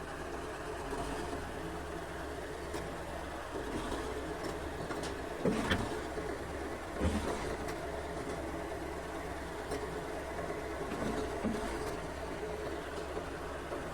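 Heavy diesel engine running steadily, with two short clunks, about five and a half and seven seconds in.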